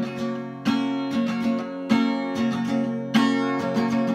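Acoustic guitar strumming sustained chords, with a strong downstroke about every second and a quarter and lighter strokes between them, playing the instrumental opening of a song.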